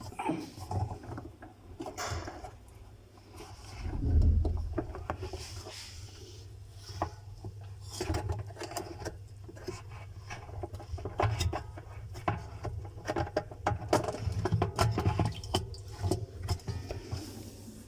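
Hands handling parts and tools at close range: scattered clicks, taps and knocks over a steady low hum, with a heavier low thump about four seconds in.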